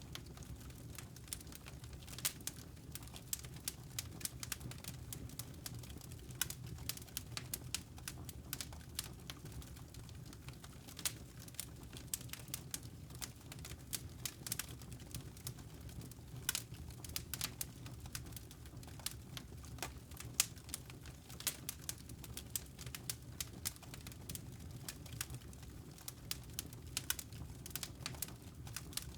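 Wood fire crackling in a fireplace: frequent irregular snaps and pops over a low steady rumble.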